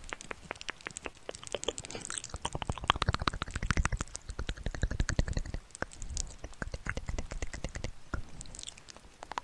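Close-miked ASMR trigger sounds: a dense run of rapid small clicks and crackles with soft low thumps, busiest in the middle and thinning towards the end.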